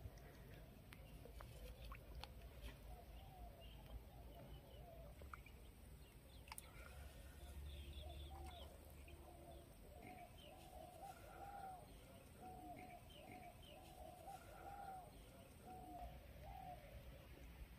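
Faint birds calling: a run of short, repeated arched calls through the middle and latter part, with a few higher chirps over a quiet low rumble.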